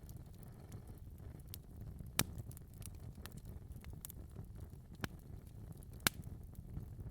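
Wood fire crackling in a fireplace: a low steady rumble of flames with scattered small ticks and three sharp pops, the loudest near the end.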